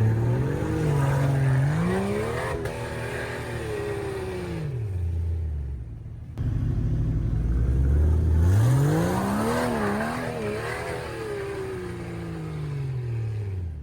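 Jeep engine revving under load, its pitch climbing, holding for several seconds and dropping away, then doing the same again after a sudden change about six seconds in.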